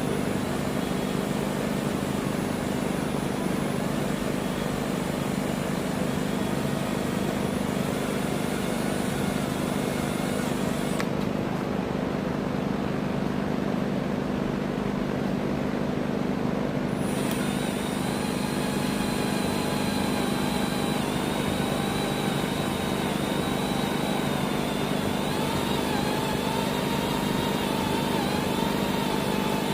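Electric drill running steadily, boring through the steel rear trunnion of an AK-pattern pistol. A higher, wavering whine joins in about two-thirds of the way through.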